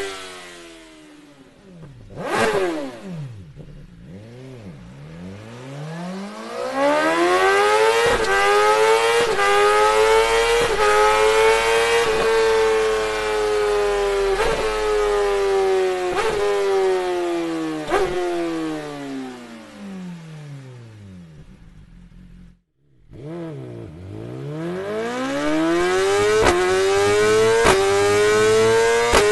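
BMW S1000RR inline-four engine through an Akrapovic exhaust, blipped once about two seconds in. The revs then climb slowly to a peak and fall away again. The sound breaks off abruptly near the end and starts climbing again.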